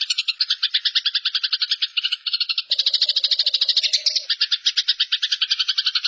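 Eurasian tree sparrows chattering in a fast, unbroken run of harsh notes, about ten a second: the agitated chatter of sparrows fighting.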